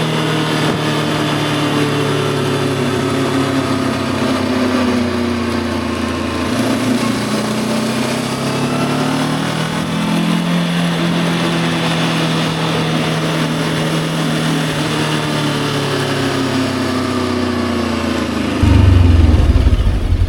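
Voge 525 DSX motorcycle's parallel-twin engine running on the road at steady revs, its pitch drifting slowly up and down. Near the end a sudden, much louder low rumble sets in.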